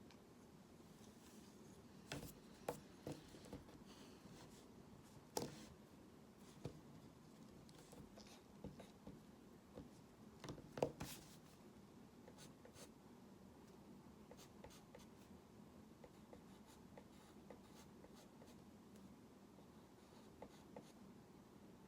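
Faint sounds of hand drawing: soft strokes with scattered light taps and clicks, the sharpest a little before halfway through.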